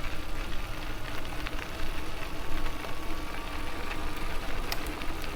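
Steady riding noise of an electric bicycle under way: a low rumble with a faint steady motor whine and scattered small ticks.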